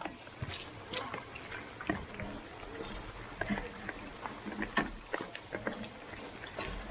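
Rain pattering and splashing on a wet artificial-turf football pitch, with irregular sharp knocks and taps scattered throughout.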